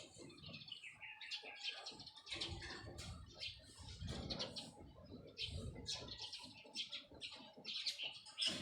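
Small birds chirping in quick repeated high notes, over irregular low thuds.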